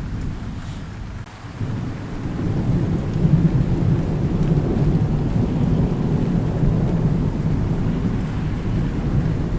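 Thunderstorm: steady rain with a long low roll of thunder that swells up about one and a half seconds in and rumbles on.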